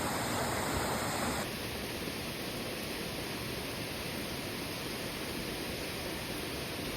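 Steady rushing of water from a waterfall or stream. The sound's character changes abruptly about a second and a half in, as at an edit, then holds steady.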